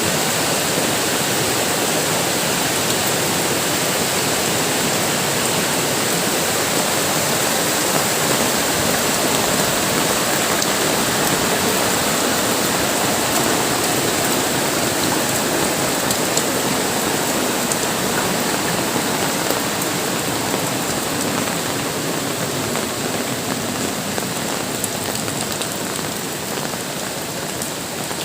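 Heavy rain pouring down in a steady, dense hiss, with scattered drops ticking on surfaces.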